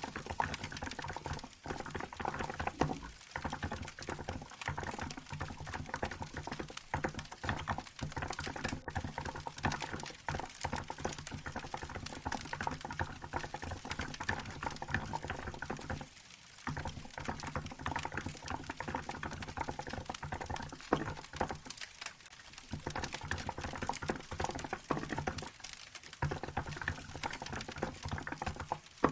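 Typing on a Hansung GK868B mechanical keyboard fitted with milk keycaps: a fast, dense stream of key clacks with short breaks about 16, 22 and 26 seconds in, over the crackle of a wood fire.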